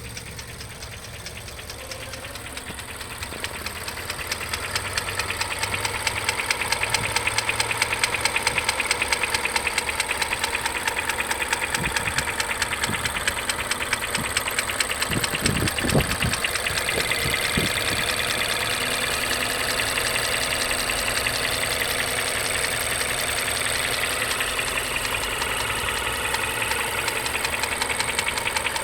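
Mazda3 (BP generation) engine idling with a rapid, continuous rattle, the idle rattle that shows between 550 and 900 RPM and that new hydraulic lash adjusters have not cured. The rattle grows louder over the first several seconds, and a few low thumps come about halfway through.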